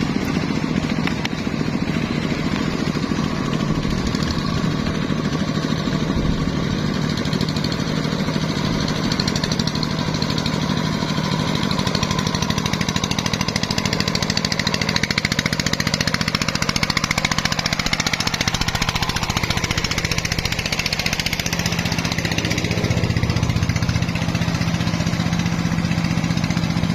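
Công nông farm truck's single-cylinder diesel engine running steadily, with a dense, fast chug; its note shifts a little about two-thirds of the way through.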